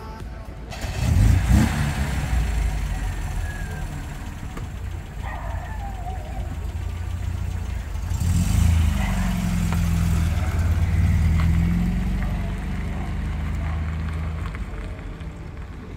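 Classic car engines running, with a short burst of revving about a second in and a longer, louder rev from about eight seconds in that holds for several seconds before easing off.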